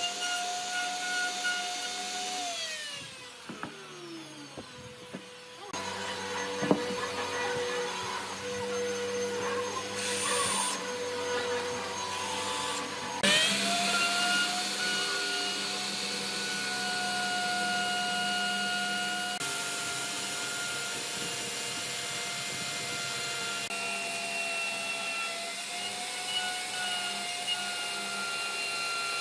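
Electric power tool motor running with a steady whine. It winds down and stops about three seconds in, gives way to a lower, quieter tone with some rubbing for several seconds, then spins back up to full speed about halfway through and runs on steadily.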